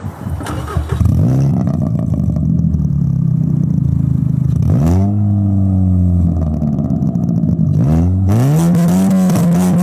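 Ninth-generation Honda Civic Si's 2.4-litre four-cylinder accelerating hard through the gears, heard through an aftermarket muffler. The engine note climbs, drops at upshifts about five and eight seconds in, and climbs again each time.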